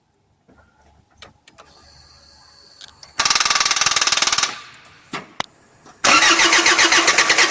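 Land Rover Freelander 1 TD4 diesel engine cranking on its starter without catching: a short crank of about a second starting about three seconds in, then a second, longer crank from about six seconds. The no-start is the symptom of a failing high pressure fuel pump.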